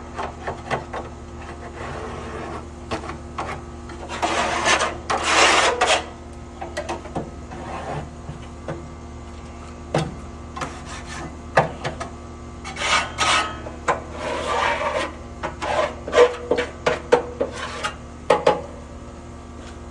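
Hand scraper scraping ash and built-up debris off the inside walls of a Traeger pellet grill, loosening it for vacuuming. Irregular scraping strokes with clinks, the longest scrapes about four seconds in and again around thirteen to fifteen seconds.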